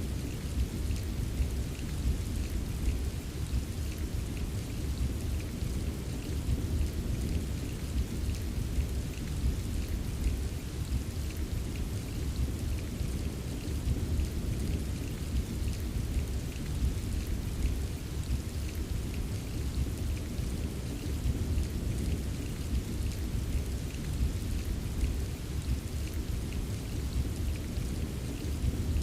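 Steady rain pattering, with fine drop ticks over a continuous low rumble of thunder.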